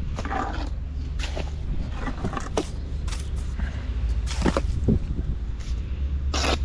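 Irregular knocks and scrapes, some stronger than others, over a steady low rumble.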